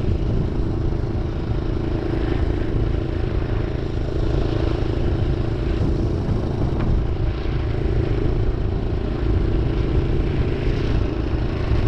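Minibike's small gasoline engine running steadily under way, on partial choke and getting a little extra fuel.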